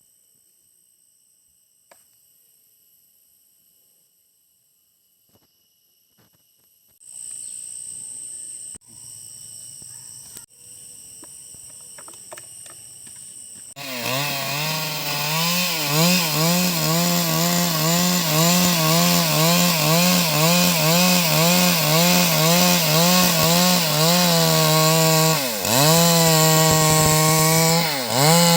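Stihl MS 382 two-stroke chainsaw running at high revs and cutting through wood, its pitch wavering steadily under load. It bogs down sharply twice near the end and recovers. Before it comes in, about halfway through, there is first near silence with faint steady high tones, then quieter noise with scattered clicks.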